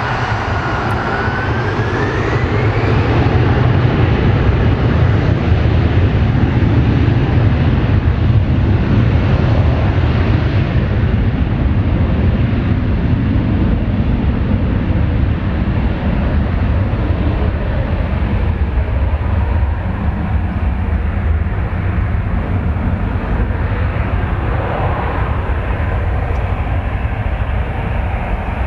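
Airliner engines at takeoff thrust during a takeoff from the runway: a deep, steady rumble with a whine that rises in pitch over the first few seconds, loudest a few seconds in and easing slowly toward the end.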